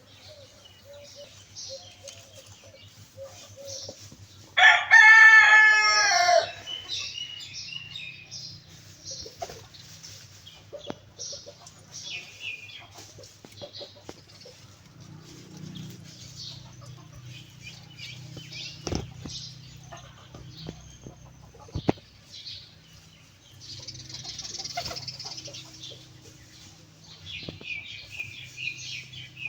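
A rooster crows once, loudly, about five seconds in, for about a second and a half. Around it come scattered faint rustles, scratches and wing flaps of birds, over a low steady hum.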